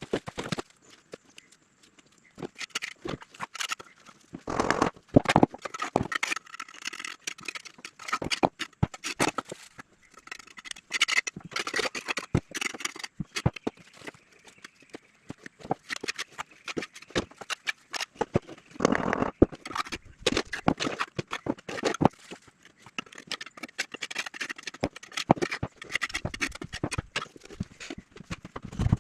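Irregular hard taps and knocks with some scraping, the sound of hands-on building work with tools and materials, going on throughout with brief pauses.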